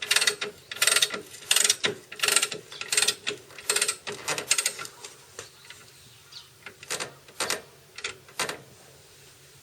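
Hand tool working on a motorcycle: a run of short, rhythmic rasping strokes, roughly one every 0.7 s, that thin out and grow fainter about five seconds in, with a few more strokes near the end.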